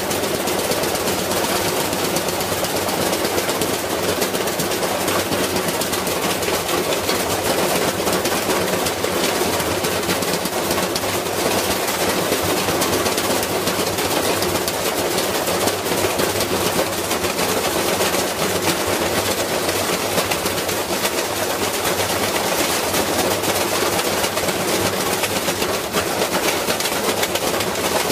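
Washing machine spinning with a heavy object loose in its drum, banging and rattling rapidly and without letup as the machine is driven to destruction.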